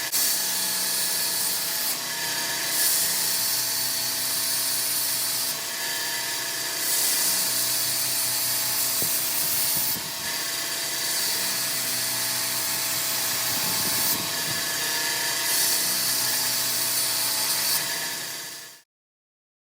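A power tool runs with a steady hum, and a hiss swells in several long passes of a few seconds each as the knife blade is worked against it. It cuts off suddenly near the end.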